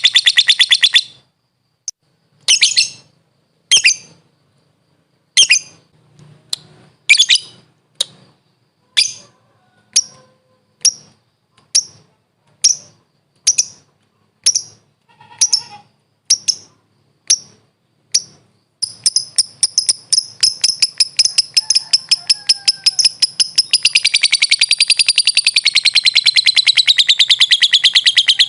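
Lovebird calling. A fast high chatter breaks off about a second in and gives way to sharp single chirps about once a second. From about two-thirds of the way in comes a long unbroken chattering trill, which wavers up and down in pitch near the end.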